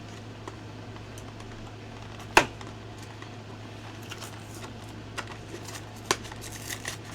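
Cardboard card-deck box being handled and pried open: scattered light clicks and taps, with a sharp snap about two and a half seconds in and another about six seconds in, over a steady low hum.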